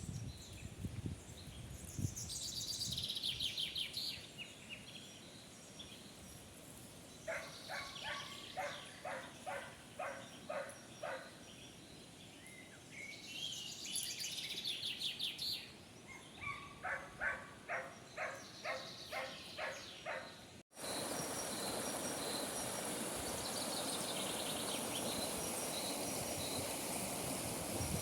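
Birds singing outdoors: high trilled songs, and two runs of short repeated calls at about two a second. About two-thirds of the way through, the sound cuts to a steady rushing of wind or running water, with faint high ticks above it.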